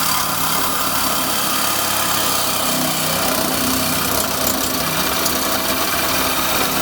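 Power saw cutting steadily through a car's exhaust pipe for a muffler delete, running without a break.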